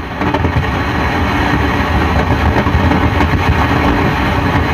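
Loud storm-like noise with a low rumble and crackle from a Studiomaster Diamond Club 12-channel mixer, heard through the amplifier's speaker as channel 4's volume is raised: a fault in that channel.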